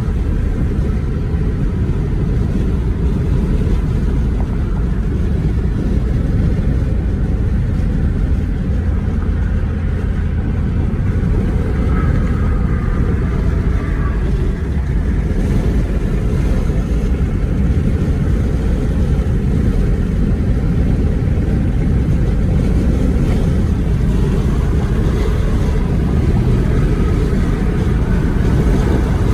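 Steady low road and engine noise of a car driving, with no breaks or sudden events.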